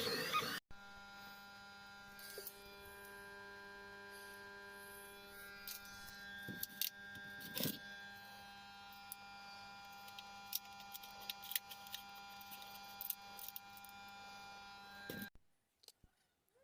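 Loud gliding whine of 3D printer stepper motors that cuts off abruptly within the first second. A steady electric motor hum follows, with scattered small clicks, and stops abruptly near the end.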